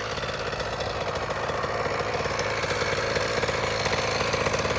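Small single-cylinder two-stroke engine of a 2012 KTM 50 dirt bike running steadily, with a fast, even firing buzz.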